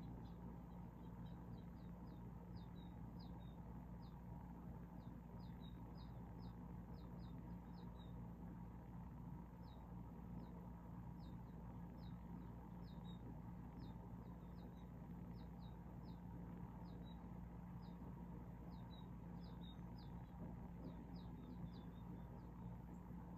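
Faint cheeping of small songbirds, finches and sparrows: short high chirps in quick runs of several at a time, over a steady low hum.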